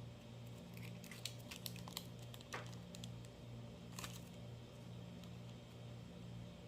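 Light crinkling and clicking of paper being handled, a run of small crackles in the first few seconds with a couple of sharper rustles, over a steady low hum that pulses evenly.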